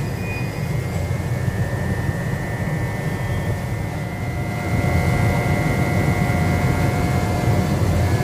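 Electric regional train moving slowly through an underground station: a low rumble with a steady high whine, louder about five seconds in.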